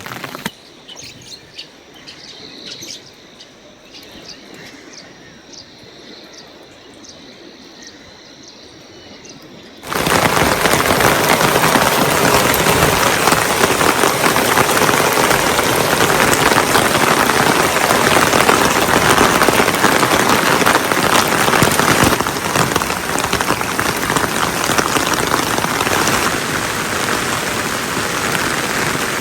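Birds chirping faintly for the first several seconds. Then, about ten seconds in, heavy rain cuts in suddenly and pours steadily.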